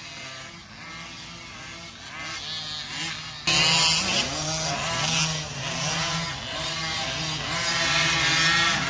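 Kids' 50cc two-stroke dirt bike engines revving, their pitch rising and falling over and over as they work through the throttle and gears; the sound gets suddenly louder about three and a half seconds in.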